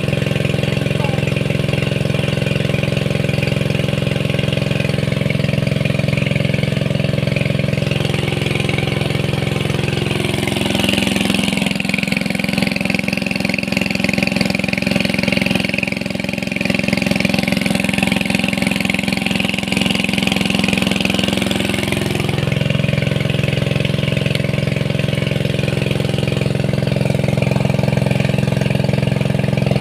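Small engine running steadily, its note dipping for about ten seconds in the middle before coming back up.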